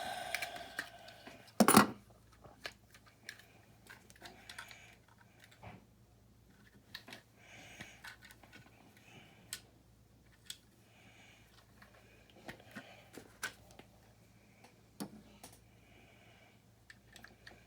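Plastic building bricks clicking and rattling as small pieces are handled and pressed together, with one sharp, loud click just under two seconds in and lighter scattered clicks after.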